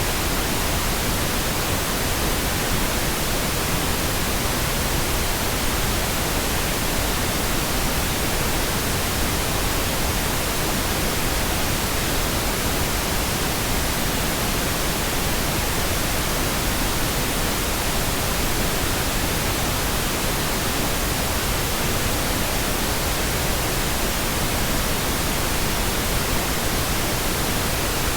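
Pink noise: a steady, even hiss spread across all pitches, with no change.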